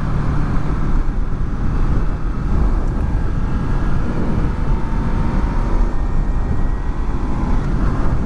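Honda VFR800's V4 engine running at road speed, mixed with steady wind and road noise on helmet microphones covered by furry windshields. A faint whine rises slightly over a few seconds in the middle.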